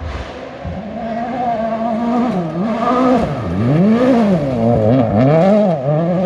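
A rally car's engine at high revs on a special stage, the note rising and falling several times as the driver changes gear and lifts, growing louder as the car approaches.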